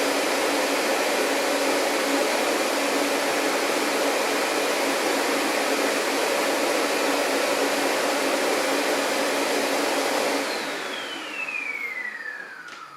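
Vacuum cleaner running steadily, then switched off about ten seconds in: its motor whine falls in pitch as it winds down.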